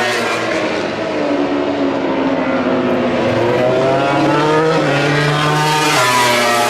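MotoGP racing motorcycle engines at high revs, dropping in pitch as they slow, then rising twice as they accelerate through the gears.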